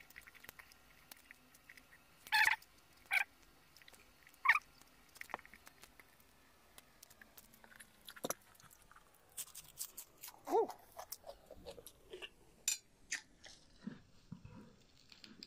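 Close-miked eating sounds: a person quietly chewing a mouthful of tomato and noodles, with scattered wet mouth clicks and smacks. A few louder short mouth sounds come about two, three and four and a half seconds in.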